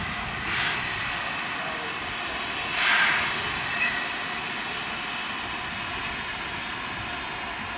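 Steam train running with a steady rushing hiss, swelling in two louder rushes, the bigger one about three seconds in.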